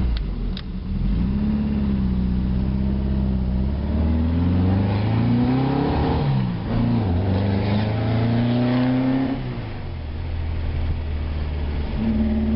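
Volkswagen engine running through an aftermarket exhaust with no baffle, so it is loud. It idles, is revved up and held unevenly for several seconds, then drops back to idle.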